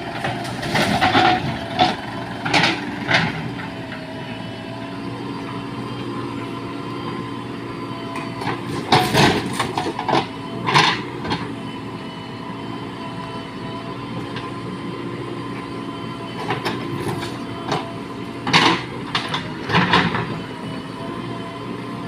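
Diesel engine of a JCB 3DX backhoe loader running steadily while it loads mud. Three clusters of loud clanks and knocks sound from the working machine: near the start, about halfway through, and again near the end.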